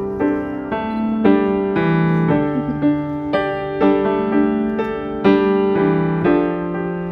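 Background music: a gentle solo piano piece, notes struck about twice a second and left to ring.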